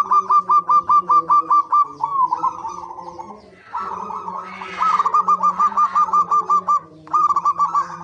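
Zebra doves (perkutut) giving fast runs of short, staccato cooing notes, about six a second, in several bursts with brief breaks about two seconds and seven seconds in, over a steady low hum.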